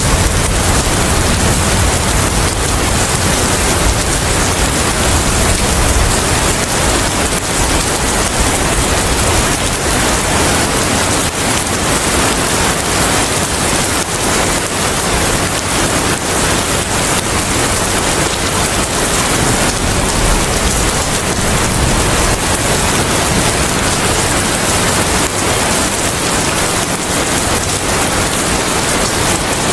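Steady heavy rain falling, an even hiss, with a low rumble of thunder dying away in the first second or so.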